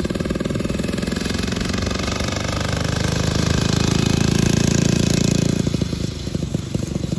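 The 250cc engine of a 1921 Train triporteur running with a rapid, even pulse. It picks up and gets louder about three seconds in, then drops back to a slower beat near the end.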